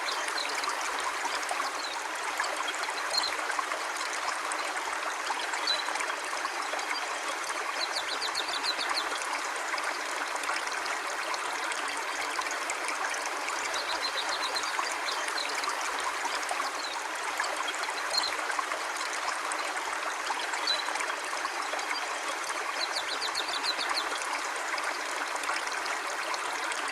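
River water flowing steadily over stones, an even rushing trickle with no low rumble. Faint high trills come in a few times.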